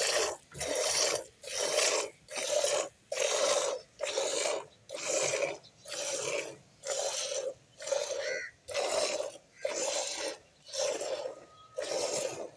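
A goat being milked by hand: streams of milk squirting into a pail in a steady rhythm of about three squirts every two seconds, each a short rasping hiss.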